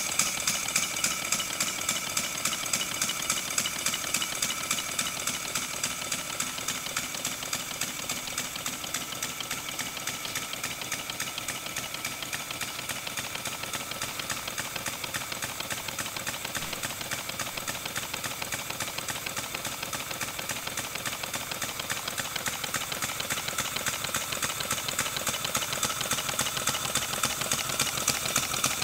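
Kitbashed Forney-type model steam engine running on compressed air: a rapid, even train of exhaust beats with a hiss. The beats are quieter for a while in the middle, then louder again near the end.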